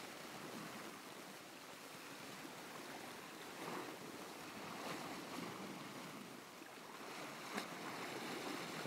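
Sea water washing against a rocky shore, a soft, steady rush of low waves, with a few faint ticks.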